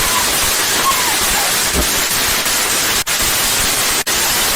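Firework going off indoors with a loud, steady hiss, briefly cut out twice near three and four seconds in.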